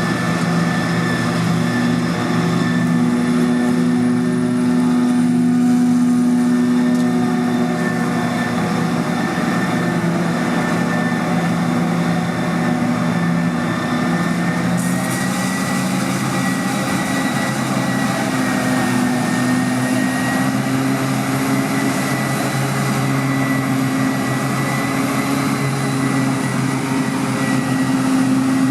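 Large farm diesel engine running steadily under load, with a thin high whine over the drone and slight shifts in engine pitch.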